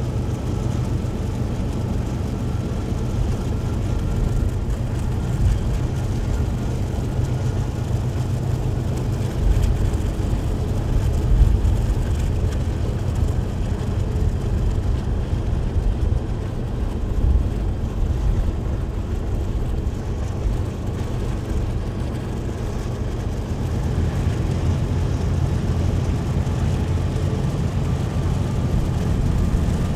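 Steady low rumble of vehicles on the move: diesel locomotives running alongside, mixed with the road noise of the car pacing them.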